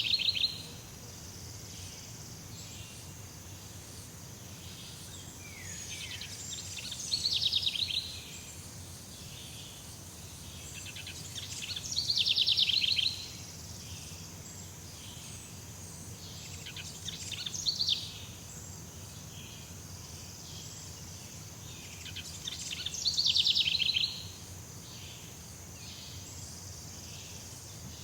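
Jungle ambience: a bird sings a short, rapid trilled phrase about every five seconds, each phrase swelling and then stopping abruptly. Between phrases a steady high insect drone continues.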